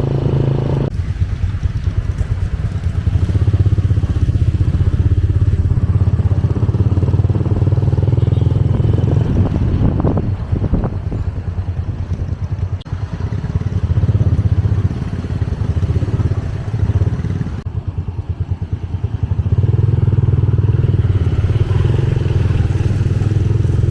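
Motorbike engine running while riding, its low, pulsing note swelling and easing as the throttle changes.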